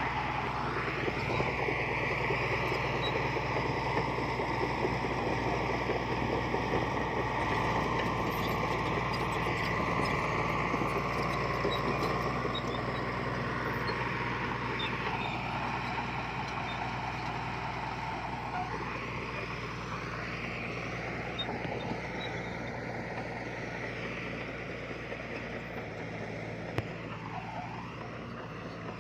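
Diesel engine of heavy earthmoving equipment running steadily under work, with a higher whine that wavers up and down.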